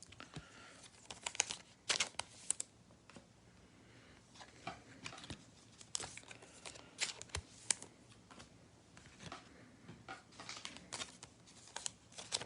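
Trading cards and their foil pack wrappers being handled: scattered soft crinkles, rips and clicks of wrapper and card stock.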